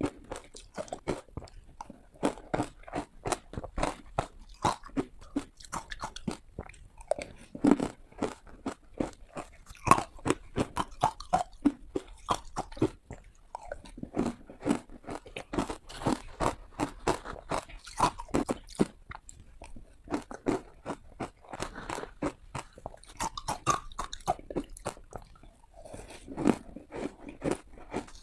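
Ice being bitten and crunched between the teeth close to the microphone: a steady run of irregular, sharp crackling bites and chews, with no pause longer than about a second.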